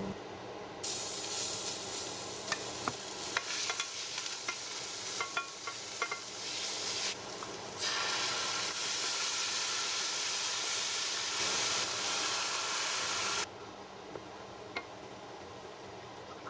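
Food sizzling as it fries in a hot pan while being stirred, with light clicks of the utensil against the pan. The sizzle drops away briefly about seven seconds in, comes back louder, and stops suddenly a few seconds before the end.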